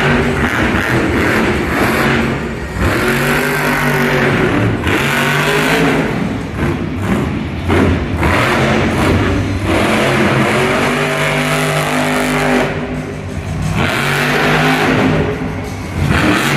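Monster truck's supercharged V8 revving hard over and over, the pitch climbing and dropping with each burst of throttle and briefly falling away between them.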